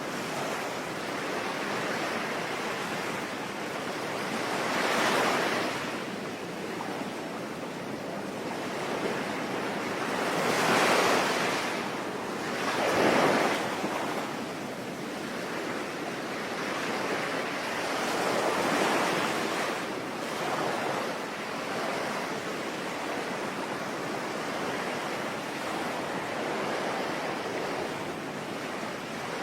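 Sea waves breaking and washing in over a steady hiss of rain, with the surges swelling and fading every few seconds, the strongest about eleven and thirteen seconds in.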